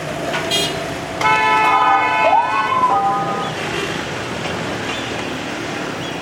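Busy street traffic noise, with a short beep and then a vehicle horn held for about two seconds, starting a little over a second in.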